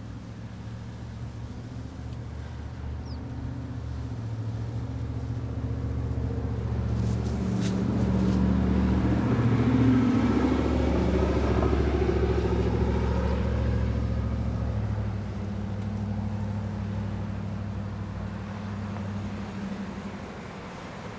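A motor vehicle's engine on the street below, passing by. Its steady low hum grows louder to about halfway, then fades.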